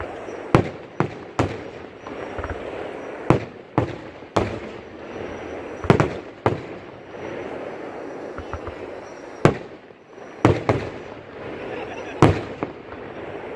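Fireworks display: aerial shells bursting with sharp bangs, about a dozen at irregular intervals, some coming in quick pairs.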